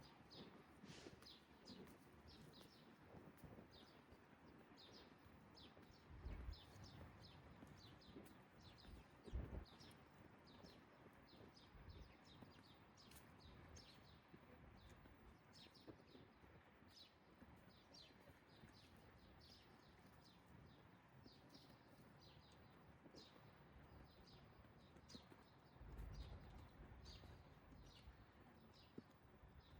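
Small birds chirping over faint morning background noise, many short high chirps repeating all the way through. A few soft low thumps come about six, nine and twenty-six seconds in.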